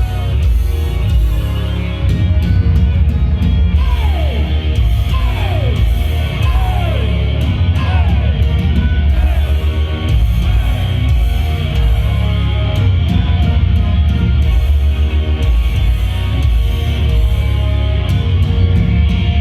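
A live heavy metal band playing the opening of a song through amplified guitars and a loud, heavy bass end. A few falling swoops in pitch come about four to seven seconds in.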